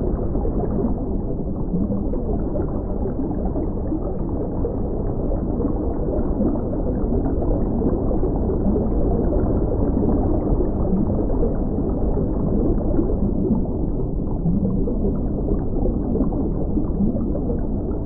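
Steady, muffled rumble of moving water, low and dull throughout.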